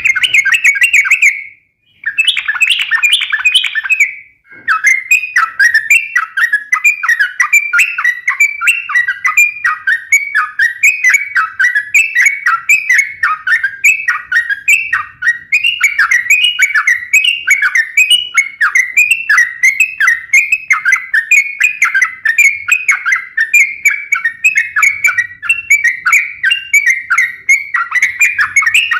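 Yellow-vented bulbul (trucukan) singing loudly and without pause, a rapid bubbly chatter of short repeated phrases, broken by two brief gaps in the first few seconds.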